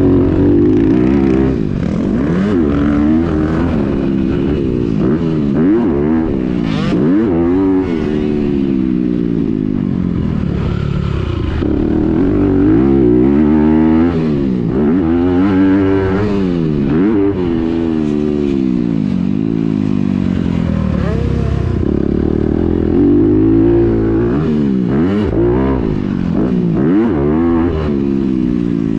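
A Honda CRF250R's single-cylinder four-stroke motocross engine being ridden hard. It revs up and drops back again and again, its pitch climbing and falling every second or two as the rider works the throttle and gears around the track.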